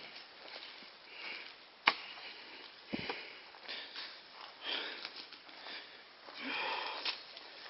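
A person's breathing, in irregular breathy puffs, with a sharp click about two seconds in and a low thump at about three seconds.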